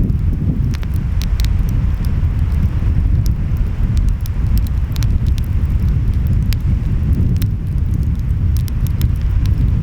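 Wood fire crackling, with frequent sharp pops, over a steady low rumble of waves and wind.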